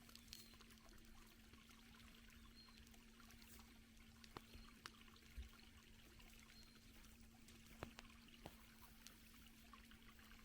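Near silence: faint, scattered clicks and crackles over a low steady hum, with a few brief high chirps.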